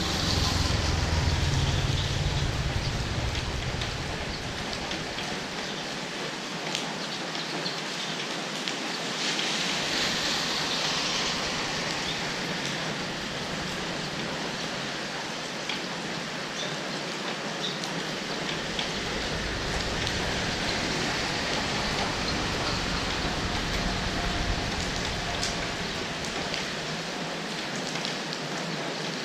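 Steady rain falling and hissing on surfaces, with a low rumble that comes and goes underneath.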